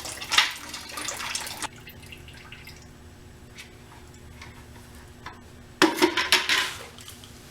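Coolant draining from a motorcycle's water pump drain hole into a catch pan: a pouring stream for the first second or two, then a quieter trickle with a few drips. A cluster of sharp knocks and rattles comes about six seconds in.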